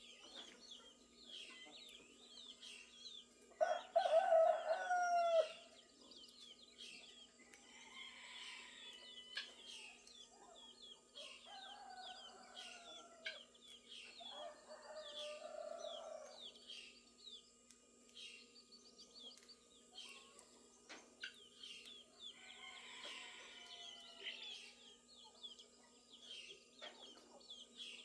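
A rooster crows loudly about four seconds in, followed by two fainter crows later on, over continual chirping of small songbirds.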